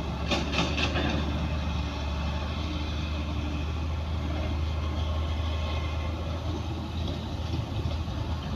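Heavy diesel earthmoving machinery running with a steady low engine drone, with a few clattering knocks in the first second.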